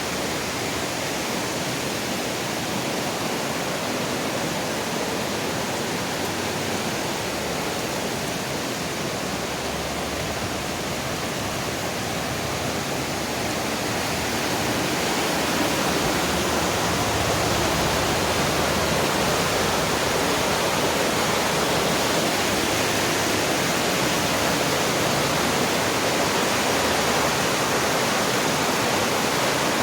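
Rain-swollen mountain creek rushing over rocks, a steady roar of fast water that grows somewhat louder about halfway through.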